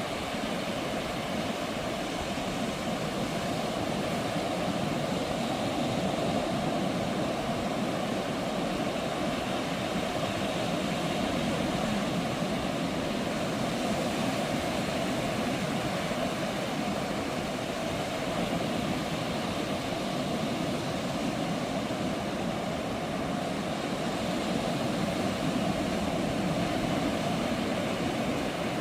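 Ocean surf: a steady, low wash of breaking waves that swells slightly every several seconds.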